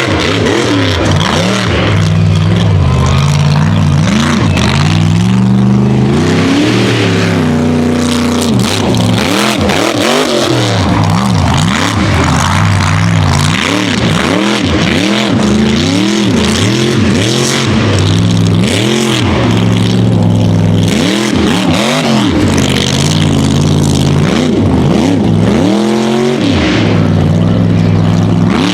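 Mega truck engine at full race effort, the revs rising and dropping again and again as the throttle is worked on and off over the course.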